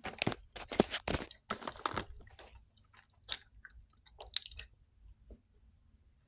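A person chewing a bite of Chips Ahoy! Chewy Confetti Cake cookie close to the microphone. The chewing is dense and crunchy for the first two seconds or so, then thins to occasional mouth clicks and stops about five seconds in.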